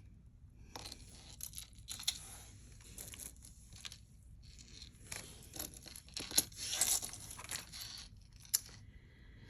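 Plastic packaging rustling and crinkling in irregular bursts as it is handled and pulled open, loudest about two-thirds of the way through.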